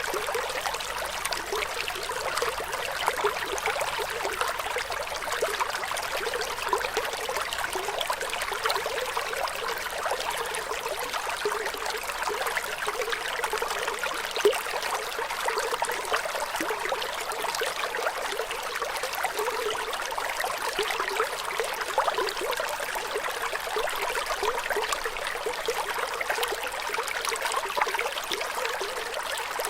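Flowing water trickling and babbling steadily, a light splashy sound with no deep rumble.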